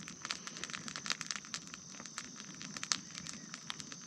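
Bonfire of rubbish crackling, with irregular sharp pops.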